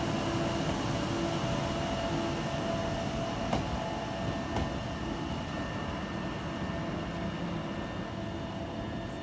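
A train running: a steady rumble with faint whining tones, two sharp clicks about three and a half and four and a half seconds in, gradually getting quieter.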